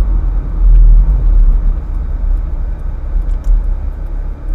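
Ferrari F430's V8 engine running at low revs, heard from inside the cabin as a steady low rumble with road noise, swelling briefly about a second in.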